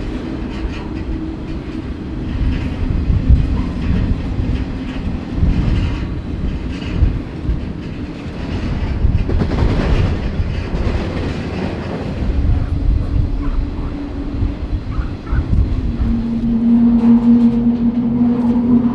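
Moving freight train heard from on board an open flatcar: a continuous low rumble of the wheels and cars with clickety-clack over the rail joints. A steady low tone comes in near the end.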